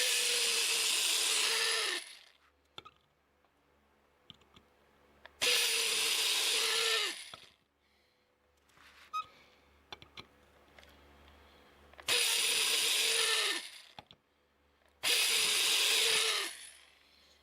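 A small power tool, most likely a drill, running in four separate bursts of about two seconds each, each starting and stopping abruptly, with small clicks of handling in the gaps between.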